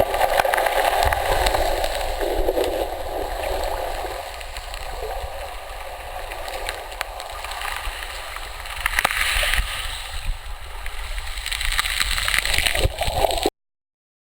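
Water sloshing and gurgling heard underwater through an action camera's housing in shallow water, with scattered small knocks; it cuts off abruptly near the end.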